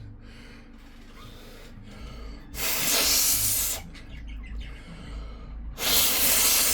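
A person blowing hard by mouth to clear dust out of a laptop's fan and heatsink: two long blows of about a second each, one midway and one near the end.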